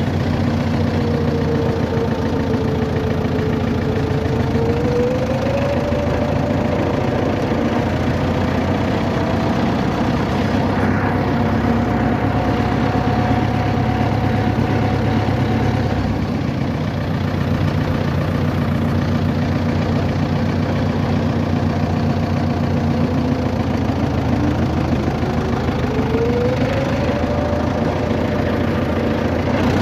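Road vehicle engine and road noise heard as a steady drone from inside the vehicle while driving, with the engine's pitch slowly rising and falling as its speed changes, climbing twice.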